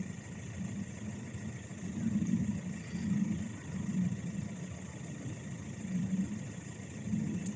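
A train's engine running with a low, uneven rumble that swells and fades about once a second.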